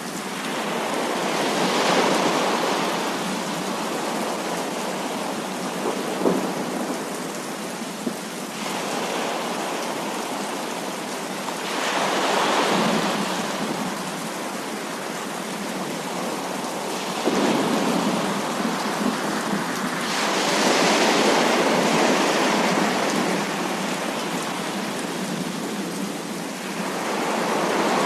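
Heavy rain falling in a dense, steady hiss that swells louder several times as the downpour comes in waves.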